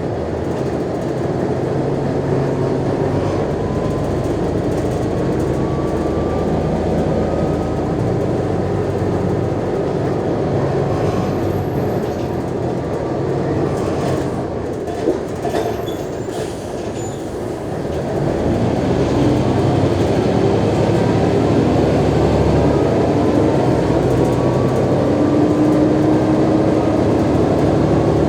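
Mercedes-Benz O345G articulated bus driving, its diesel engine and drivetrain running with whines that rise in pitch as it gathers speed. It eases off a little around the middle, with a brief click, then pulls harder and louder from about two-thirds in.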